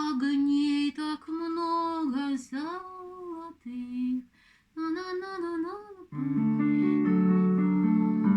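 A woman sings a phrase of a Russian folk song with long held, wavering notes. About six seconds in, instrumental accompaniment of steady, stepped notes takes over.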